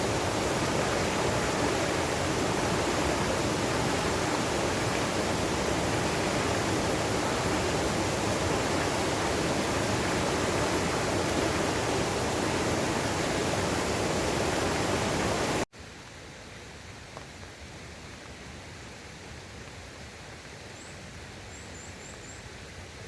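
Steady rushing of a valley stream. It cuts off suddenly about two-thirds of the way through, giving way to a much quieter hiss with a few faint, high chirps near the end.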